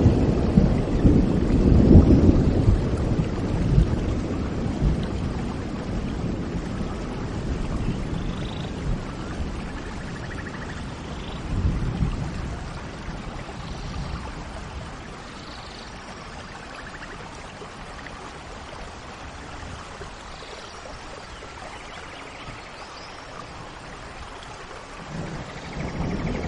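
Steady rain with thunder rumbling at the start and dying away over several seconds, then a new rumble building near the end. Faint short bird chirps sound here and there above the rain.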